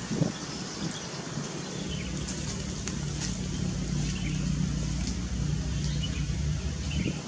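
Steady low engine hum of a motor vehicle that swells a little in the middle and falls away near the end, with faint short bird chirps above it.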